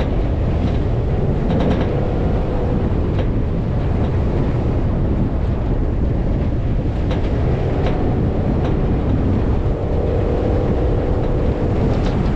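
Off-road vehicle driving over desert sand, its engine and running noise under heavy wind buffeting on the microphone, with a few brief clicks and rattles.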